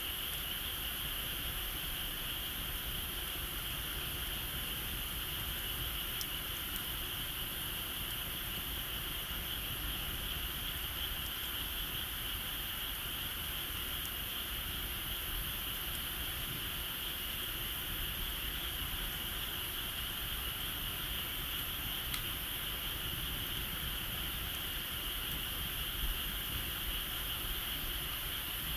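Steady, unbroken chorus of insects trilling high, with a few faint crackles from a wood fire.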